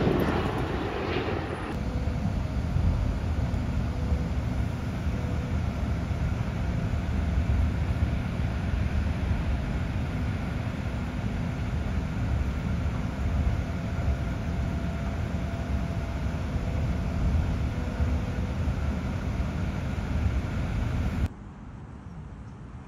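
A low-flying airliner passing overhead for about the first two seconds, then the steady low rumble of a moving train heard from on board. Near the end the rumble cuts off abruptly to a much quieter background.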